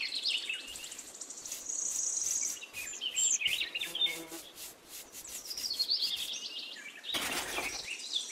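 Small birds chirping and twittering throughout, with scattered faint clicks and a brief scratchy brushing noise about seven seconds in.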